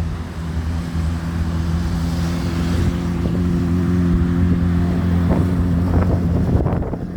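Engine running steadily with a low, even hum, under wind on the microphone; the hum drops away near the end.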